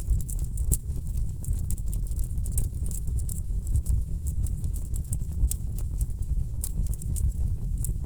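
Wood fire crackling in a fireplace: a quick, irregular run of sharp pops and snaps over a low, steady rumble of burning logs.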